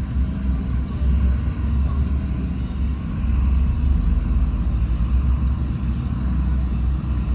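Heavy diesel construction machinery running, a steady low rumble without pauses.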